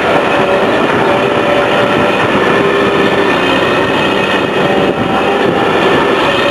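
Heavy demolition machinery working: a steady, loud machine noise with several sustained squealing tones running through it.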